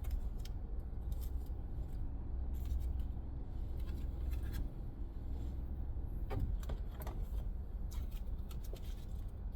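Tarot cards being handled: a few light clicks and rustles over a steady low hum.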